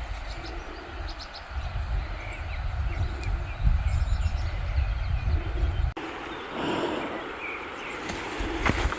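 Wind buffeting the microphone with a low rumble over a steady hiss of rain. About six seconds in the sound changes abruptly: the rumble mostly drops away and the rain hiss carries on.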